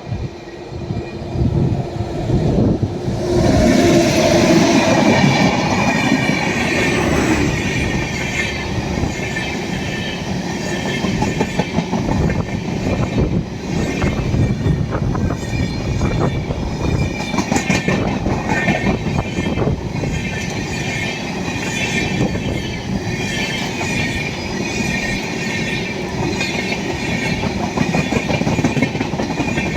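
Express train of LHB coaches passing at speed: the sound swells sharply about four seconds in as the front goes by, then the coaches rattle past with a rapid clickety-clack of wheels over rail joints.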